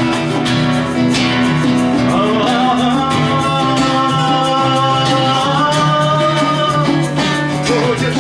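Live acoustic band music: guitar accompaniment with a voice holding long notes through the closing refrain of the song.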